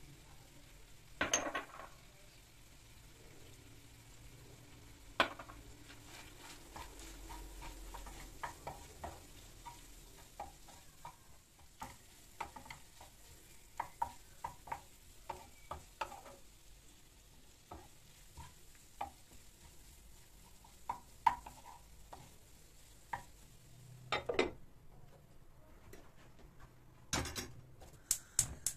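Quiet, irregular light clicks and taps of small hard objects being handled, with a few louder knocks, one about a second in and several near the end.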